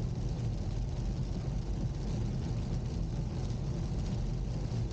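Car driving along: a steady low rumble of engine and road noise with an even hiss above it.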